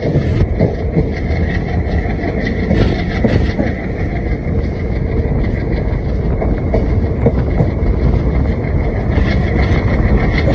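Passenger train running on the track: a steady rumble with an irregular clatter of wheels on the rails.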